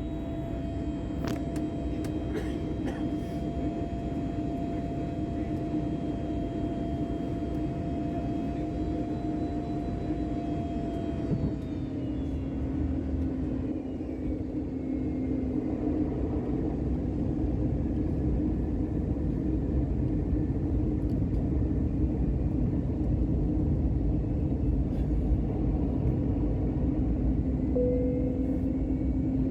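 Airbus airliner cabin noise in flight: a steady jet engine and airflow rumble with a few engine tones. About a third of the way in, one higher tone sinks a little in pitch and drops out, and the rumble grows gradually louder, as on the descent toward landing.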